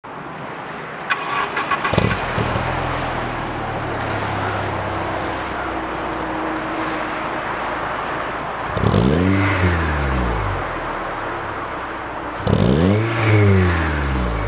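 Alfa Romeo 156 2.0 Twin Spark four-cylinder engine through an Ulter sport exhaust, cranked and catching about two seconds in, then idling. It is revved twice, near the middle and near the end, each time rising in pitch and falling back to idle.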